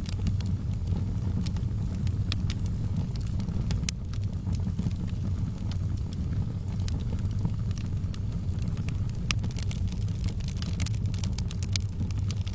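Wood fire burning in a fireplace: a steady low rumble of the flames with scattered sharp crackles and pops, which come thicker in the last few seconds.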